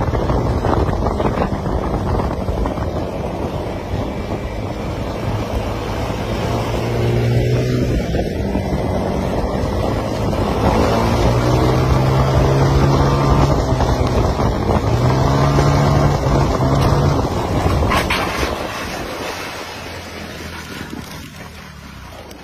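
Motorcycle engine running at road speed, its pitch climbing several times as it accelerates, under heavy wind buffeting on the microphone. The sound eases off near the end.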